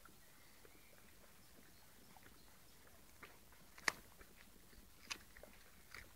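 A dog chewing a raw carrot: faint scattered crunches, with two sharper bites about four and five seconds in.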